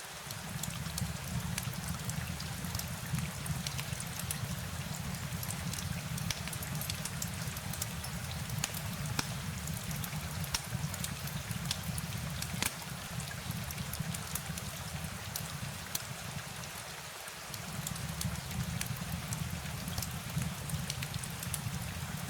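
Steady rain with many scattered, sharp drop ticks over a low, even rumble; the rumble drops away briefly about 17 seconds in.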